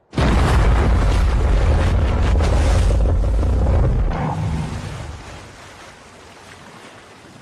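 Film monster-battle sound effects: a sudden loud, rumbling blast that holds for about four seconds, then dies away into a softer rushing noise.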